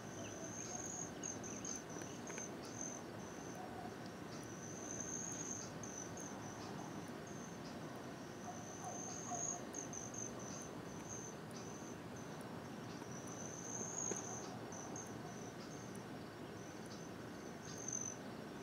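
A bird singing a faint, high, thin song: a drawn-out note that swells and drops, followed by a few short chirps. The phrase repeats about every four to five seconds over a steady background hiss.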